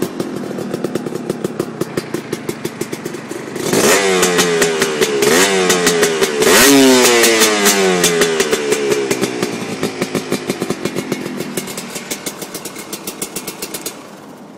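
Honda CRM250R two-stroke single-cylinder engine idling after a cold start. It is revved a few times from about four seconds in, the pitch falling back after each blip, then settles back to idle and goes quieter near the end.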